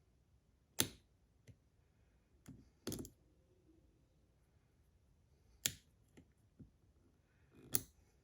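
Sharp, scattered clicks and clacks of a metal fidget slider's parts and magnets being handled, about eight in all, the loudest about a second in, a little past the middle and near the end.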